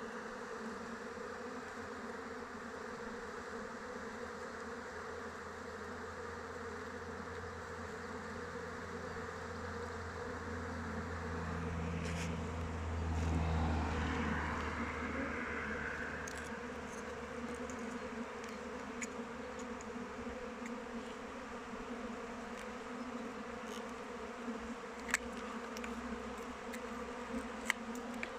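Honeybees buzzing steadily around their hive, a constant many-winged hum. About halfway through, a low rumble swells and fades, and a couple of sharp clicks come near the end.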